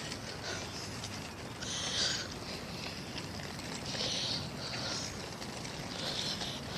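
Footsteps of people walking along a path, short scuffing crunches every second or two, over a low steady outdoor rumble.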